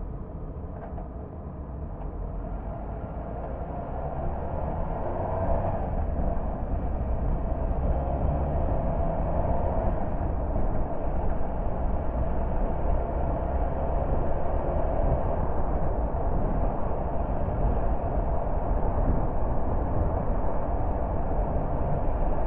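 A car driving on the road: steady engine and tyre noise that grows louder over the first five or six seconds as the car picks up speed, then holds even.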